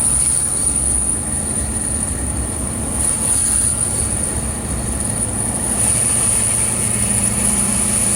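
LBZ Duramax 6.6L V8 diesel with a Stainless Diesel 9-blade turbo running, the turbo giving a steady, very high-pitched whistle over the engine's low rumble through a 5-inch exhaust.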